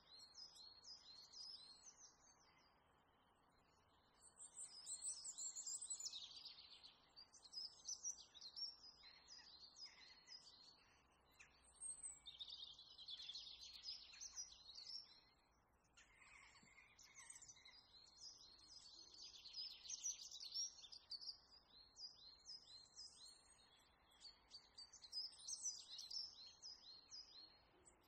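Faint chirping and twittering of small birds, in busy bursts a few seconds long with short lulls between, over a low steady hiss.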